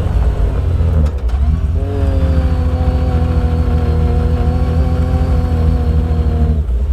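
Built big-turbo Yamaha YXZ's three-cylinder engine running under load, with a brief drop about a second in, then holding a steady pitch before dropping away briefly near the end.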